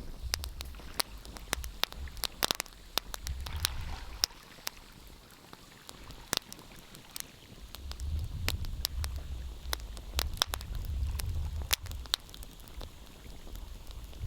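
Wood fire crackling in a fireplace, with sharp pops and snaps scattered irregularly, over a low rumble that fades out about four seconds in and returns around eight seconds.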